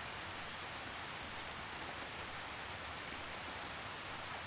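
Steady, gentle rain: a soft, even drizzle pattering on a surface.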